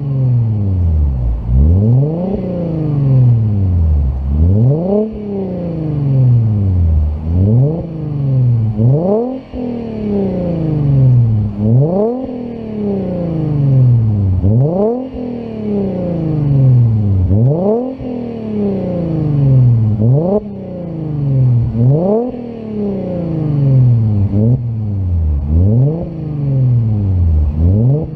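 Mercedes C300 engine through a custom exhaust, revved over and over while parked. Each rev climbs quickly and then falls back slowly, about once every two and a half seconds, roughly a dozen times.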